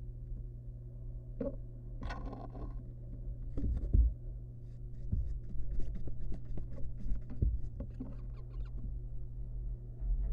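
Barn owl nestling scrabbling and flapping inside its nest box: scattered scratches and rustles, with dull thumps about four and seven and a half seconds in, over a steady low hum.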